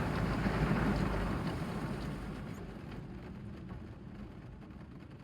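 Car wash water spray drumming on a car, a steady rushing noise over a low rumble that grows steadily fainter from about two seconds in.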